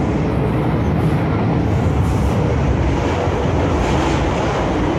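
MTR Kwun Tong line M-Train running along the line, a steady, loud rumble of wheels on rail and running gear.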